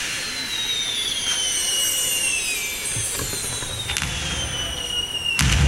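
Aerial fireworks: two long whistles falling slowly in pitch from rising whistling shells, with a sharp bang about four seconds in. A loud burst near the end is followed by a deep rumble.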